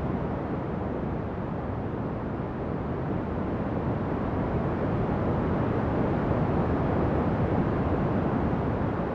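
Ocean waves: a continuous low rush of surf that swells slowly, growing louder toward the latter part.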